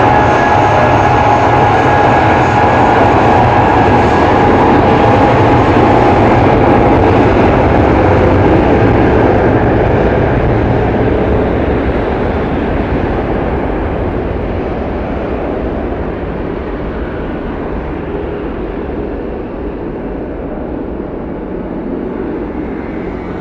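Airbus A320-232 airliner's IAE V2500 jet engines at take-off power, the engine noise fading steadily and growing duller as the aircraft moves away.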